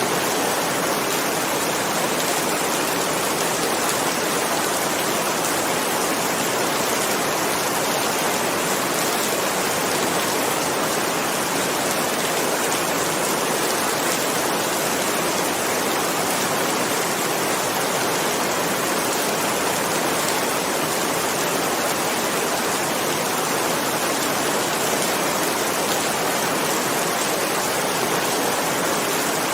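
Steady heavy rainfall, an even unbroken hiss of rain with no thunder.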